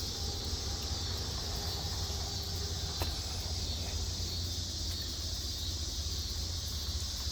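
Steady outdoor background: a continuous high insect drone over a low rumble, with one faint click about three seconds in.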